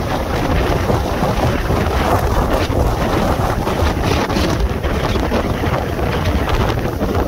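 Tropical storm wind buffeting the microphone: a loud, continuous rumbling rush that gusts up and down without a break.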